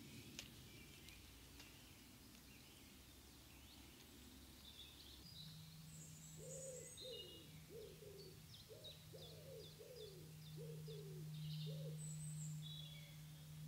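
Faint woodland birdsong: small birds chirping high, and a lower bird calling a run of about eight short falling notes. A faint steady low hum starts about five seconds in.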